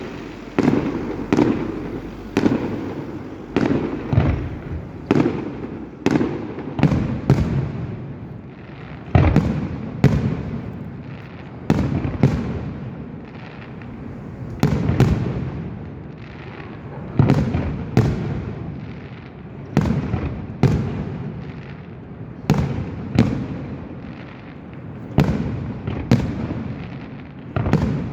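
Aerial fireworks display: shells bursting in quick succession, about one to two sharp bangs a second, each trailing off in a low echoing rumble.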